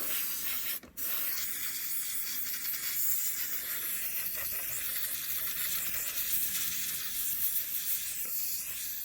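Can of compressed air duster spraying, blowing dust out of a PlayStation 4: a loud, steady hiss that breaks off briefly just under a second in, then runs on in one long blast.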